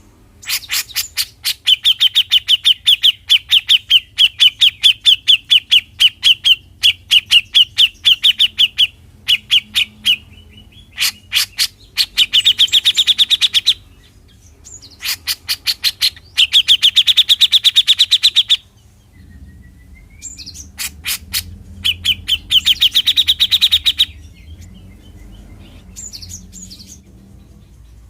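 Cucak jenggot (brown-cheeked bulbul) giving its harsh 'mbeset' call: long runs of rapid, sharp ticking notes, loud, in bursts of a few seconds with short pauses between, some runs faster and denser near their ends.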